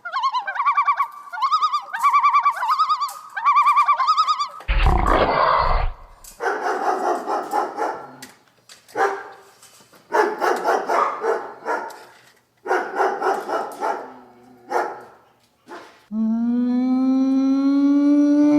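Dog vocalising, amid animal sounds played to it. About four seconds of repeated warbling calls come first, then a short loud burst of noise, a series of rough barks, and near the end one long held call that drops in pitch as it ends.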